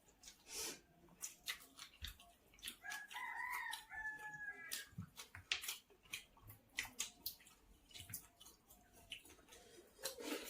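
A rooster crows once, a call a little over a second long about three seconds in that rises and then falls. Throughout, wet smacking, clicking and squishing sounds come from hand-eating watery pakhala rice.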